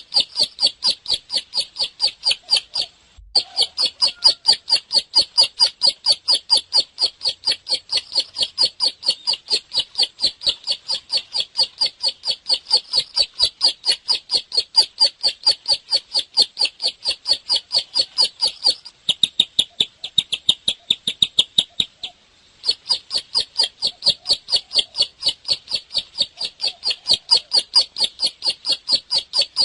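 Ciblek (bar-winged prinia) singing vigorously: a fast, even run of short, high, repeated notes, about three to four a second, broken by a short gap about three seconds in and a brief pause about 22 seconds in.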